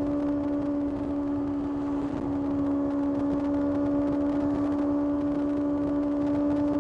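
Kawasaki ZX6R's inline-four engine running under way at a steady, fairly high engine speed, its pitch holding level with a brief small dip about two seconds in.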